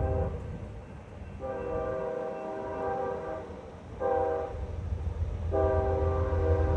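Freight locomotive's multi-chime air horn sounding the grade-crossing signal: the end of one long blast, then a long, a short, and another long blast that is still sounding at the end. Underneath is the steady low rumble of the approaching train, growing louder.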